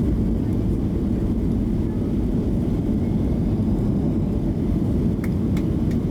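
Steady low rumble of a Boeing 737-700's CFM56 engines and airframe heard inside the cabin just after landing, as the jet slows and taxis, with a few faint ticks near the end.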